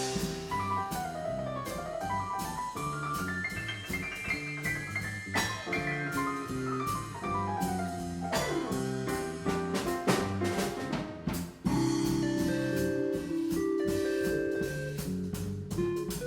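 A small jazz band playing live, with drums and cymbals keeping time under quick runs of notes that climb and fall, over a walking bass line.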